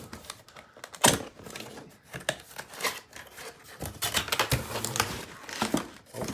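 A cardboard shipping box and its packaging being handled and opened: an irregular run of clicks, scrapes and crinkles, with a sharp knock about a second in.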